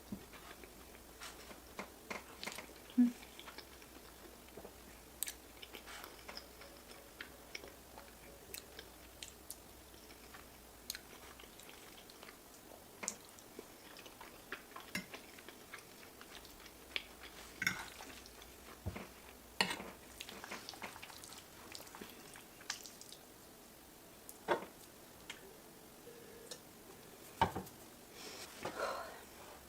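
Close-miked chewing and eating: irregular wet mouth clicks and smacks with occasional louder bites.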